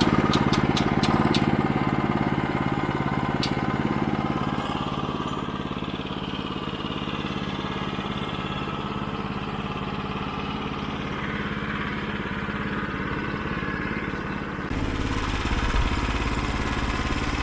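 9.5 hp gasoline engine of a Woodland Mills HM122 band sawmill running steadily. A run of sharp clicks comes in the first second and a half, and a deeper, louder rumble comes in near the end.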